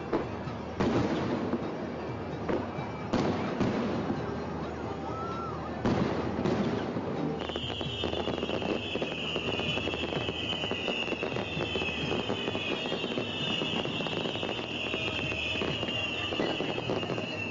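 Fireworks going off: several sharp bangs in the first half, then from about halfway a repeated high falling whistle over continuous crackling.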